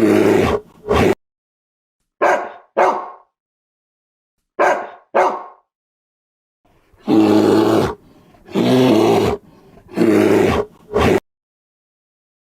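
An animal giving a series of loud, harsh calls separated by silent gaps: two quick pairs of short bark-like calls, then several longer calls.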